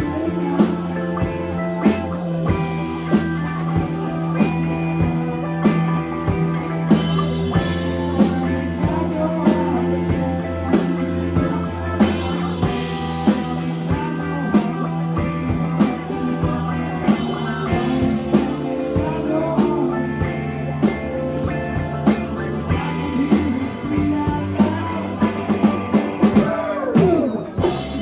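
Live rock band playing: electric guitar over a steady drum-kit beat, in a bluesy, psychedelic-rock style.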